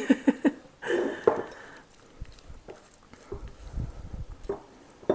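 Soft scraping and light knocks of a utensil spreading a thick creamy filling in a pie dish.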